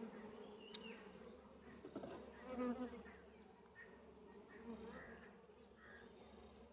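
Honeybees buzzing around an opened hive and its frames, a faint steady hum. A sharp click comes just under a second in, and a brief louder sound about two and a half seconds in.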